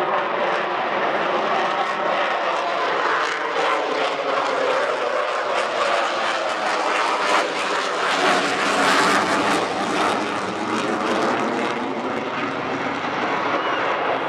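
Airplane engine noise as an aircraft flies past, its engine note sliding lower as it goes by.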